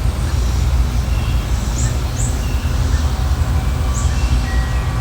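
Small birds chirping now and then, a few short downward-sliding chirps, over a steady low wind rumble on the microphone.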